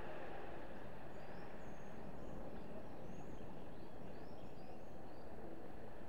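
Small birds chirping: a scatter of short, high calls over a steady low rush of background noise.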